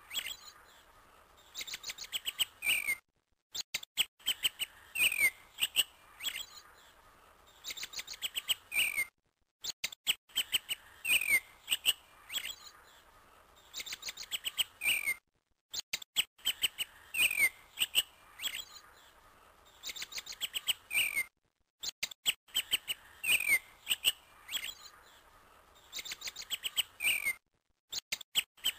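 Birds chirping and whistling, a short recording looped: the same pattern of chirps repeats about every six seconds, with a brief silent break between repeats.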